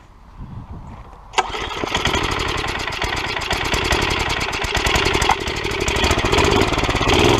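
Murray mini bike's small Tecumseh engine catching about a second and a half in and then running with a rapid firing beat. It is restarting after stalling, running with no air filter on cold air, which is typical of its hesitant running.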